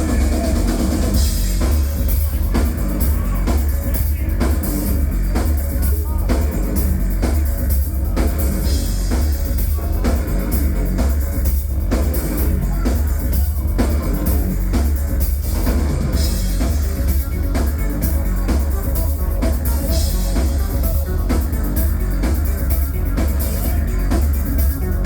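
Live industrial rock band playing loud, with a driving drum beat, heavy bass and guitar, as heard by a phone in the crowd.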